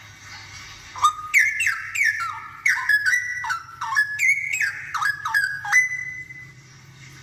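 Straw-headed bulbul (cucakrowo) singing one loud burst of rich whistled song about a second in, a quick run of notes that step down in pitch and end on a held note after about five seconds. A faint low hum sits underneath.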